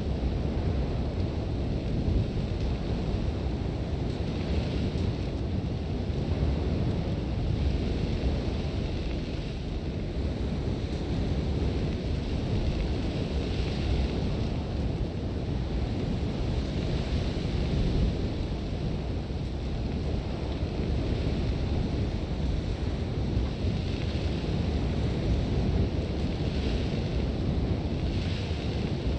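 Sandstorm wind blowing hard and steadily with a deep rumble, while hissing gusts of blown sand swell and fade every few seconds.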